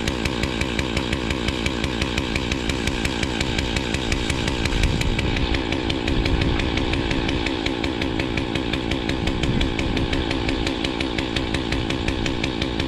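Engine running steadily with an even, rapid pulsing, briefly louder and deeper about five seconds in.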